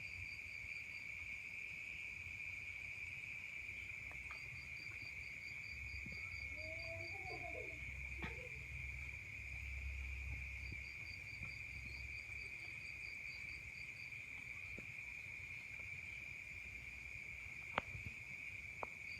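Night-time insect chorus in a rice paddy: a steady high-pitched trill that never lets up, with a second insect's rapid pulsed chirping coming in runs of a few seconds and pausing between them. A couple of faint clicks near the end.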